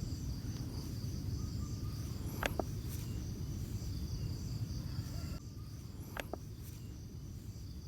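Steady high-pitched chirring of crickets, with a low rumble underneath and two sharp clicks, about two and a half and six seconds in.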